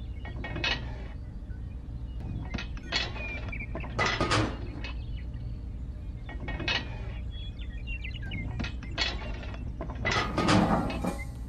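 Handmade toy parts being handled: a series of short knocks and scrapes as the small paddle wheel is lifted and set down, over a steady low hum.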